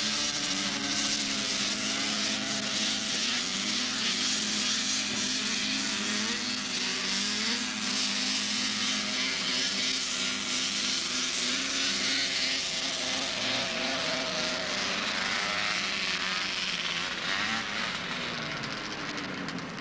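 Two-stroke racing snowmobile engines running hard through a grass drag pass, their pitch sweeping up a few times, the sound dropping away near the end.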